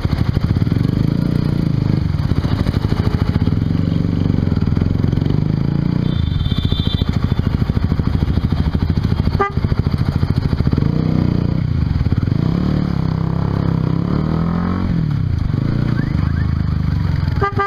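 Honda CBR150R's single-cylinder engine through a Yoshimura exhaust while riding, the engine pitch rising and falling with the throttle. One sharp click about halfway through.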